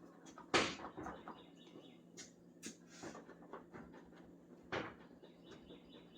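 Scattered knocks and clicks from hand work on the truck cab. The loudest knock comes about half a second in, another near five seconds, with lighter taps between.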